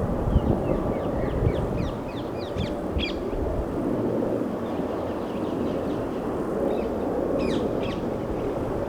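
Birds calling in quick short notes, in a cluster over the first three seconds and again briefly near the end. Under them runs a steady low rumble of outdoor noise.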